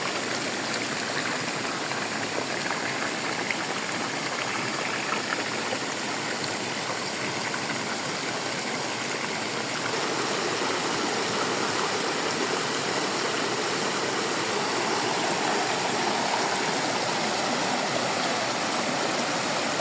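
Running water rushing steadily, a little louder from about halfway through.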